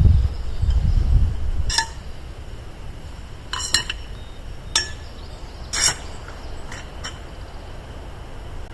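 Low wind rumble on the microphone that drops away about two seconds in. It is followed by about six light, sharp clinks spread over the next five seconds.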